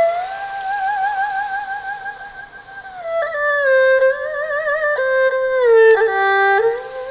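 Instrumental music played through hi-fi loudspeakers under test. A single melody line wavers with vibrato and slides between held notes, with little bass beneath it.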